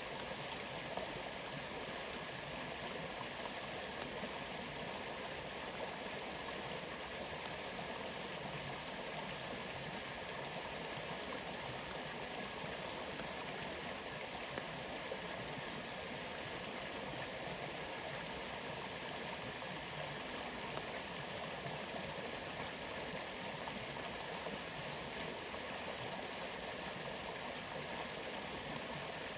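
Waterfall rushing steadily, an even, unchanging wash of falling water.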